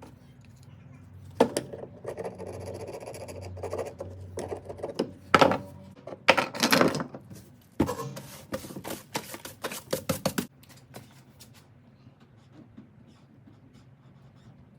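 Hand tool scraping and knocking against a ratchet's plastic and rubber handle as the soft grip is shaped away: a run of scraping strokes and sharp clicks, loudest in the middle, that stops about ten seconds in.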